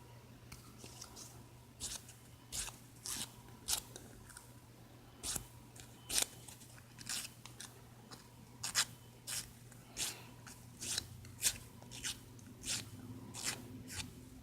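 Nail file rasping in short strokes at an uneven pace, one or two a second, against a repaired thumbnail to take off excess nail glue.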